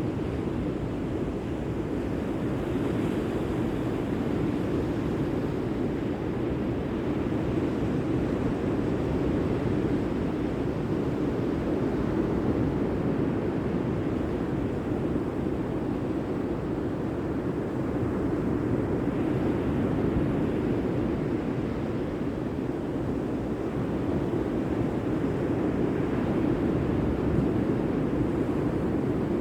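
Sea surf washing steadily, with slow swells in loudness, mixed with wind on the microphone.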